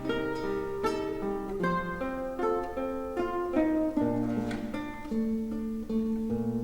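Classical guitar ensemble playing a plucked melody in several parts over held bass notes.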